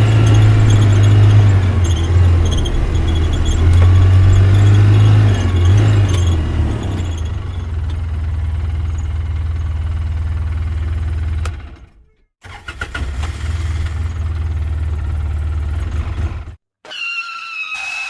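A vehicle engine running steadily with a strong low hum. It cuts off abruptly about twelve seconds in, starts again a moment later, and stops again near the end.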